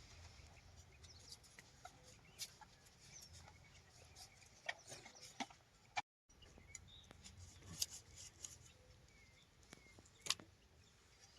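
Faint chickens clucking now and then, with a few sharp knocks scattered through. The sound drops out completely for a moment about six seconds in.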